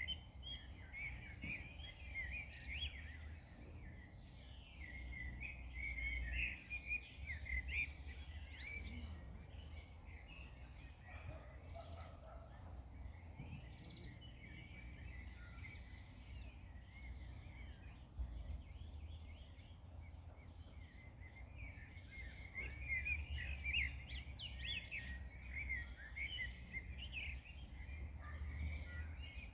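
Several songbirds singing and chirping together, busiest in the first few seconds and again near the end, over a low, uneven rumble of wind.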